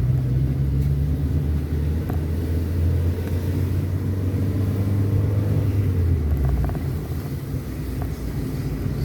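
A moving road vehicle's engine and road noise, a steady low hum that drops away about six and a half seconds in, as if the vehicle eases off.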